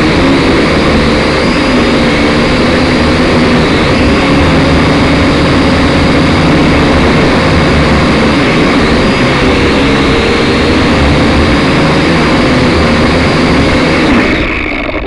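Syma X5SC quadcopter's small motors and propellers whining steadily, their pitch wavering slightly, with wind buffeting the microphone. The sound drops away sharply near the end.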